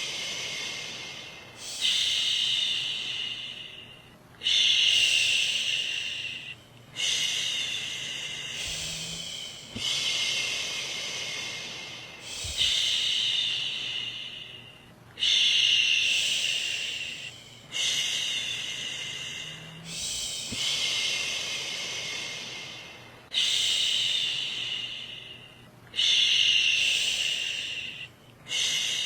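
A woman shushing, a long "shhh" over and over, each one starting strongly and fading away over one to three seconds, as a soothing sound to settle a baby to sleep.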